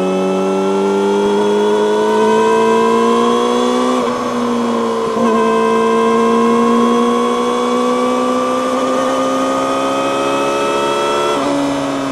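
Yamaha YZF-R6's inline-four engine through an Akrapovic megaphone slip-on exhaust, pulling under way with its pitch climbing slowly. The pitch breaks and dips briefly about four seconds in and again near the end, at gear changes.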